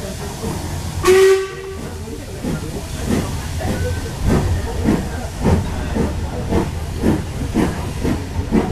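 A short locomotive whistle blast about a second in, over the steady running noise of the train heard from inside a carriage. Then a regular beat about twice a second sets in as the train runs along the line.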